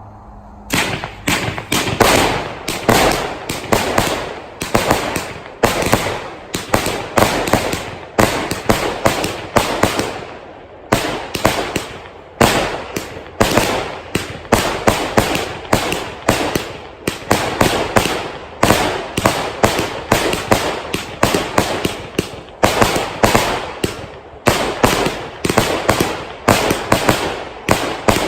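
A 100-shot firework cake firing, starting about a second in: rapid sharp shots, several a second, each with its aerial break, with a couple of short lulls about halfway through.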